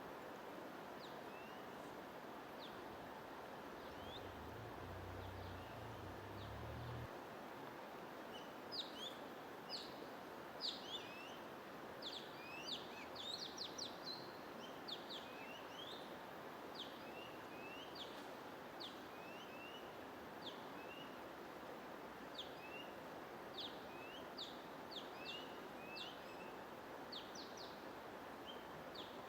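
Small birds chirping in short, quick rising and falling notes over a steady hiss of white noise. The chirps are sparse at first and come thick and fast from about a third of the way in.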